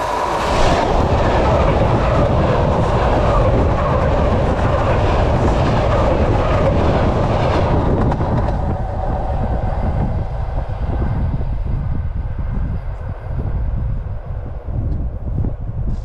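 ET2M electric commuter train rolling directly over the track, heard from between the rails: a loud rumble of wheels on rail with repeated wheel clicks as the cars pass overhead. About eight seconds in the higher noise drops away and a low rumble is left, fading near the end as the train moves off.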